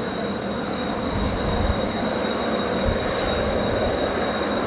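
Jet noise from Blue Impulse Kawasaki T-4 jets, a steady rush with a thin high whine, and strong wind buffeting the microphone in a gust about a second in.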